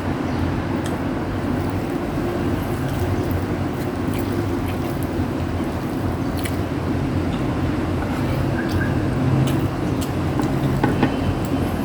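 A steady low mechanical hum throughout, with scattered faint clicks and smacks of people eating.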